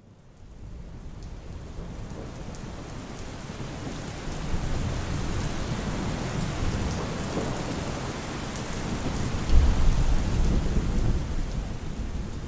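Steady rain with rolling thunder, fading in from silence. A low rumble of thunder swells about four and a half seconds in, and a louder one comes near the ten-second mark.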